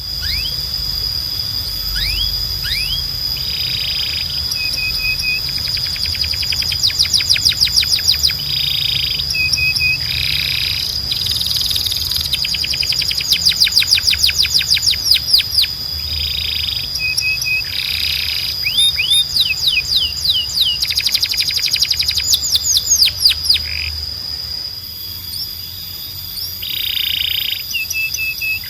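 Canary singing: fast trills of rapidly repeated notes and quick down-slurred whistles, in phrases a few seconds apart, over a steady high-pitched tone.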